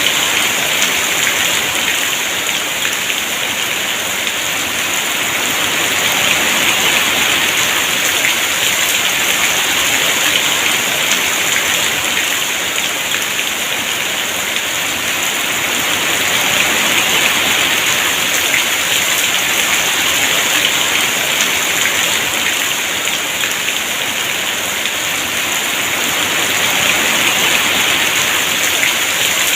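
Heavy rain falling in a steady, dense downpour, its hiss swelling and easing slowly every ten seconds or so.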